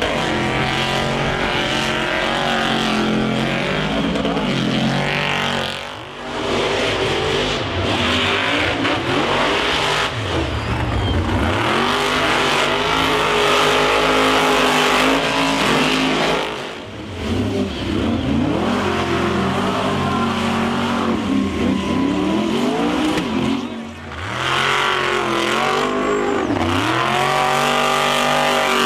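Monster truck engine revving hard over and over, its pitch climbing and falling as the throttle is worked. It drops away briefly three times.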